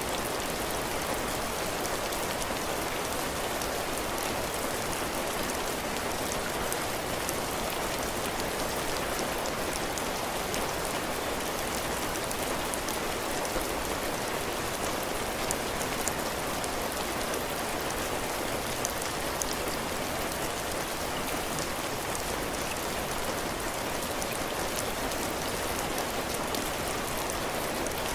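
Steady heavy rain falling on a cabin porch, drops hitting the roof and the ground in a continuous even hiss.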